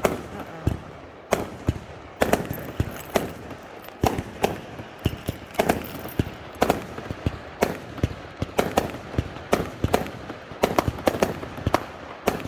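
Fireworks going off in a rapid, irregular string of sharp bangs and crackles, several a second, overlapping one another.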